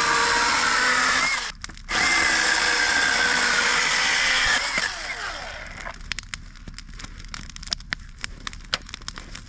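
A small motor runs loudly, stopping briefly about one and a half seconds in and cutting off about five seconds in. A campfire then crackles with sharp, irregular pops.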